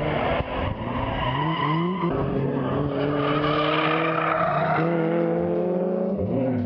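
Drift car engine revving hard and rising and falling in pitch as it is worked through the revs, with tyres squealing as the cars slide.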